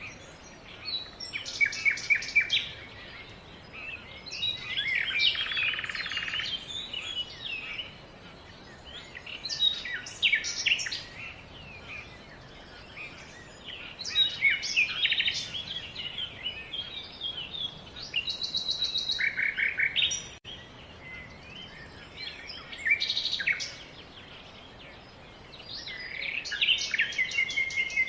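A songbird singing: short, varied phrases of quick chirps and trills, each a couple of seconds long, repeated every four to five seconds.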